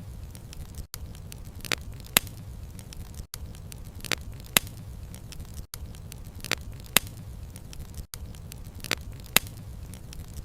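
Wood fire crackling: sharp pops and snaps of burning wood over a low steady rumble of the flames. The same short stretch of crackle repeats about every two and a half seconds, with a brief drop in sound at each repeat.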